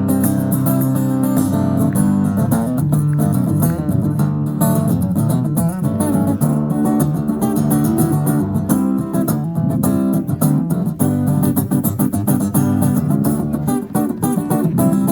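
Guitar playing an instrumental break in an upbeat rock-blues song, with a steady strummed rhythm.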